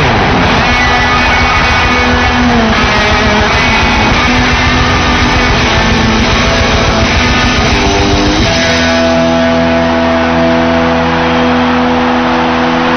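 Live rock band playing loud, with distorted electric guitar. About eight and a half seconds in, the busy playing gives way to a long held chord that rings on steadily, like a song's closing sustain.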